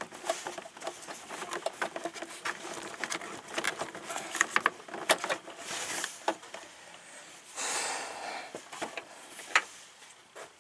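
Irregular clicks, taps and light knocks of hands working with tools and parts, with a short rustling noise lasting about a second around two-thirds of the way through.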